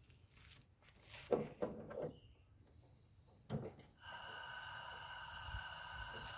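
A few knocks and clatter, a short run of high chirps, then about four seconds in a steady hum of several even tones starts and keeps going.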